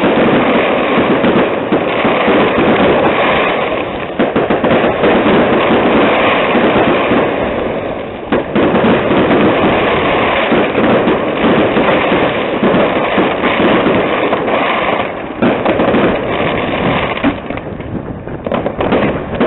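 Fireworks going off in a dense, continuous run of crackles and bangs, thinning out a little near the end.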